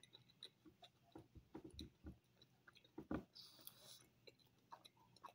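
Faint mouth sounds of a person chewing a soft blueberry fritter doughnut: scattered small wet smacks and clicks, with a louder one about three seconds in followed by a short hiss.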